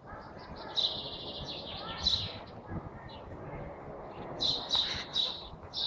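Small birds chirping: several spells of quick, high chirps, about a second in, around two seconds, and again near the end.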